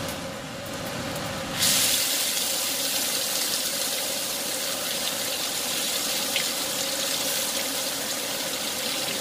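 Pounded green-chilli spice paste frying in hot oil in a wok: a loud, steady sizzle that starts suddenly about a second and a half in as the paste hits the oil.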